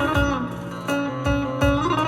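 Electric bağlama (Turkish long-necked lute) playing a folk melody note by note, over low drum beats.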